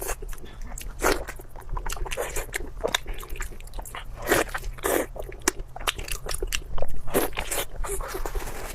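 Close-miked eating sounds: crunchy bites and chewing with dense crackling, with several louder crunches.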